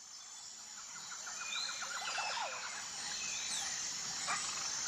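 Nature ambience fading in: a steady high insect buzz with bird calls over it, including a rapid trill between about one and two and a half seconds in and a few short sliding chirps.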